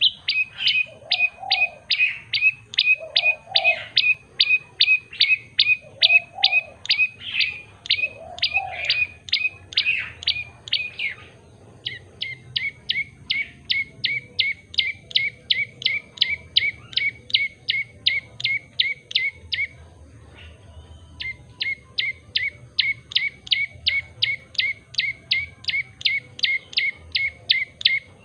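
Prenjak lumut (common tailorbird) singing in a long fast series of sharp, loud chip notes, about three a second. Partway through it switches to a slightly different repeated note and pauses briefly before carrying on. Several lower calls sound under the song in the first ten seconds.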